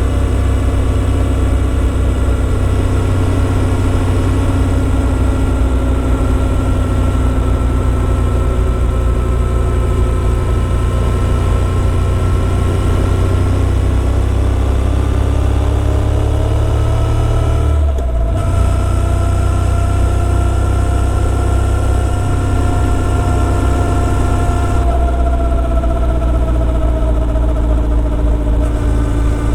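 Motorcycle engine running steadily under way, its note drifting slowly up and down, with a brief dip about eighteen seconds in.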